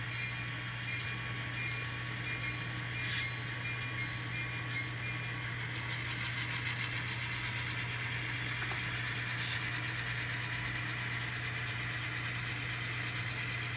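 Model train running along layout track: a steady low electric hum with rolling wheel noise and a few light clicks.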